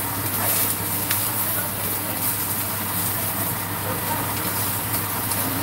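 Abalone frying in hot oil in a pan: a steady sizzle, with a low hum underneath and a light tap of a utensil about a second in.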